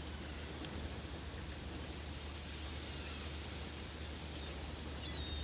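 Steady wind noise with a low rumble buffeting the microphone outdoors as a tornado passes, and a brief high bird chirp near the end.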